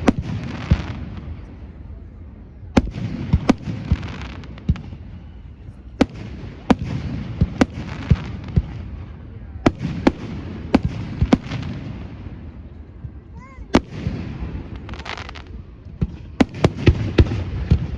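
Fireworks display: aerial shells bursting in sharp bangs, dozens of them at uneven spacing, with stretches of hissing noise between the bangs.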